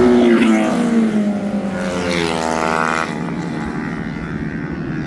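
Motorcycle engines on a race circuit, revving hard as bikes pass: the pitch falls over the first second or so, then climbs steeply to a high rev around two to three seconds in.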